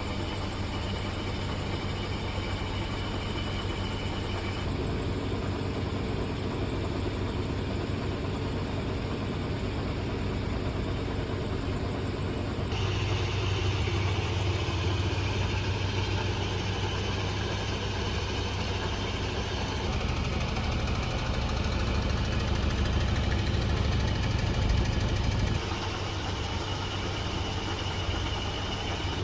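Volvo 240 wagon's engine running through a budget aftermarket eBay exhaust: a steady low drone that grows louder in the middle and drops back a few seconds before the end.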